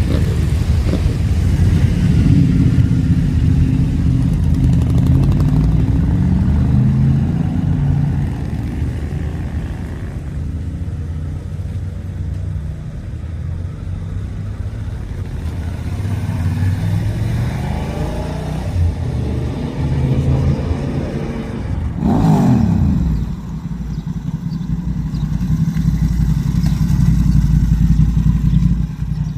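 Several motorcycle engines running as bikes ride in and gather, their low engine notes overlapping. About 22 seconds in, one bike passes close, its pitch sweeping down as it goes by.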